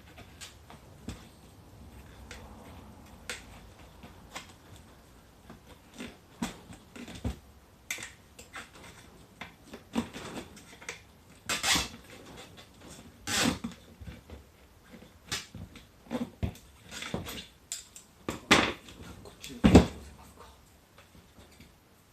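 Tyre levers knocking and clinking against a motorcycle wheel rim while the stiff bead of an 18-inch Bridgestone Battlecross X20 motocross tyre is levered off. Irregular knocks, the loudest ones in the second half.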